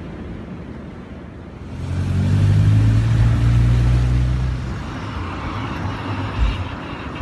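A motor vehicle's engine, a low steady hum that swells about two seconds in, holds for about three seconds and fades away, like a car going by. A short low thump near the end.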